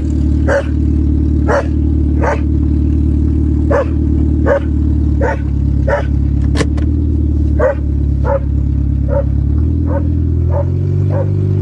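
A Honda's engine running steadily while a dog barks over it again and again, roughly once a second. The engine note shifts about ten seconds in.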